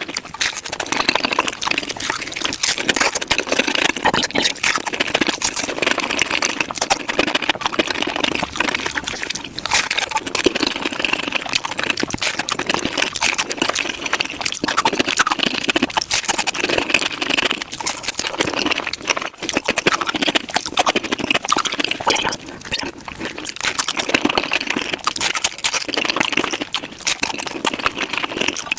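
Close-miked sounds of tacos being eaten, sped up to five times normal speed: a dense, unbroken stream of rapid crunching and wet mouth clicks.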